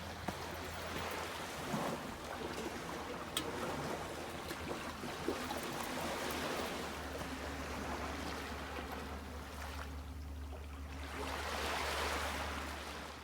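Small waves washing up onto a sandy shore, swelling and fading in three surges, over a low steady hum.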